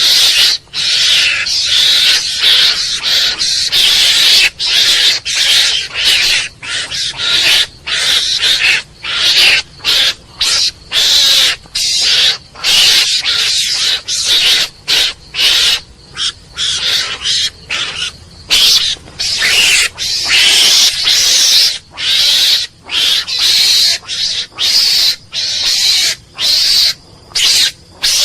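Mongoose calling: harsh, hissing screeches repeated in quick succession, each broken off by a short gap.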